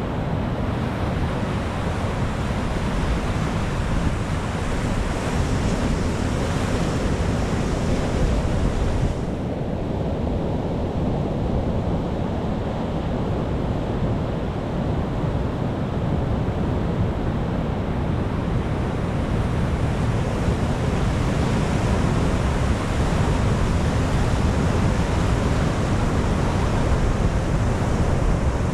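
Sea surf: a continuous rush of waves with a heavy low rumble, the sound of wind on the microphone mixed in. The higher hiss of the water drops away suddenly about nine seconds in and swells back up over the next ten seconds.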